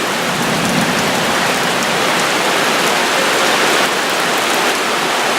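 Heavy rain pouring steadily onto the ground and surfaces during a summer thunderstorm downpour.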